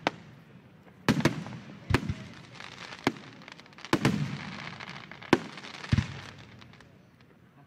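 Aerial firework shells bursting: a run of sharp booms, some in quick pairs about a second apart, each trailing off in echo, with a hiss between bursts in the middle stretch.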